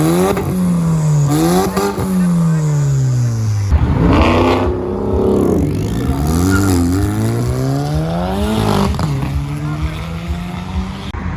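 A car engine being revved. The revs jump up and fall back twice, then about four seconds in the sound turns louder and rougher for several seconds while the revs rise and fall, before the engine settles into a slow, steady climb in revs.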